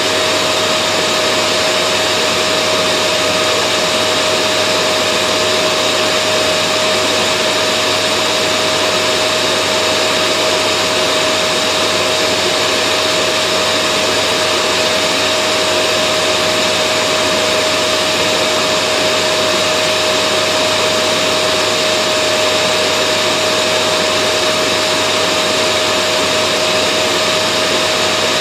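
Vacuum cleaner motor running steadily: a continuous loud whooshing hum with a steady whine in it, unchanging throughout.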